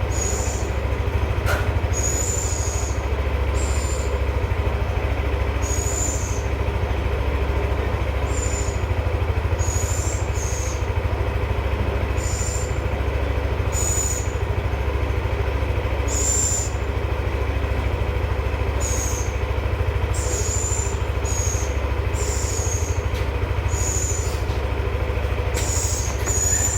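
A hungry owl giving short, high-pitched, hissy screeching calls over and over, every second or two, in a steady low hum. These are food-begging calls.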